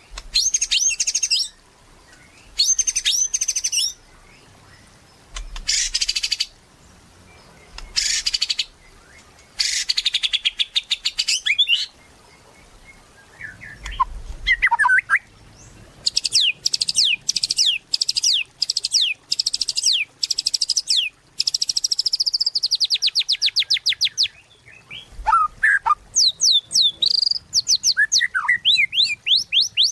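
White-rumped shama singing in full 'gacor' song: phrases of rapid, high-pitched notes separated by short pauses, including a long run of fast repeated notes in the middle and a few lower sliding whistles.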